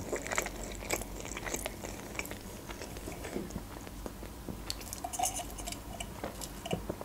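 Mouth sounds of chewing a bite of shawarma wrap, irregular wet clicks and smacks, then sipping a drink through a straw near the end.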